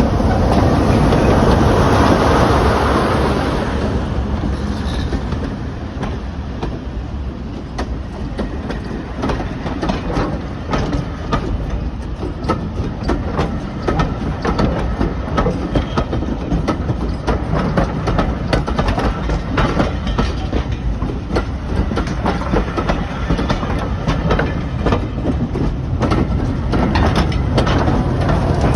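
Train running on the rails: a loud rush for the first few seconds, then a long run of wheels clicking over the rail joints over a steady low rumble.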